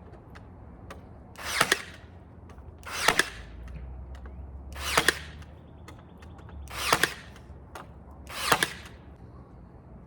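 Power nailer driving nails into wooden fence slats: five shots about one and a half to two seconds apart, each a short swelling whir that ends in a sharp crack.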